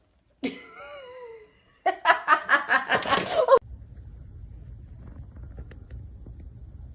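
A short wavering cry, then a person laughing in quick bursts for about a second and a half, cut off abruptly and followed by a low hum.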